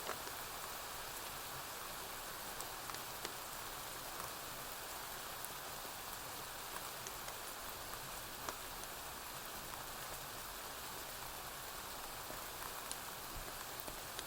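Steady rainfall, an even hiss with scattered faint clicks and pops throughout.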